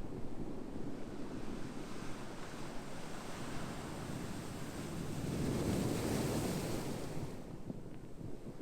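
Ocean surf: a steady wash of waves, with one wave building about five seconds in, breaking with a loud hiss, and falling away near the end.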